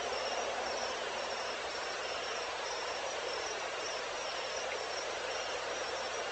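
Evening insect chorus: a high chirp repeats in short, even pulses over a steady hiss of many insects.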